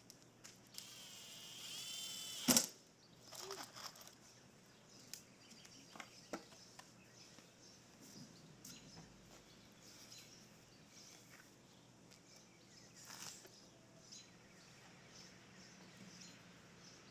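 Scattered knocks and clicks of hand work on a wooden-framed loam screen. A short rising noise ends in a sharp knock about two and a half seconds in, the loudest sound, followed by lighter taps and clicks.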